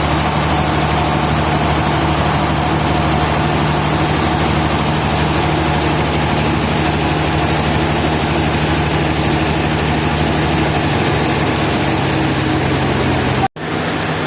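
A machine engine running steadily at an even speed with a low, constant hum. It cuts off abruptly near the end.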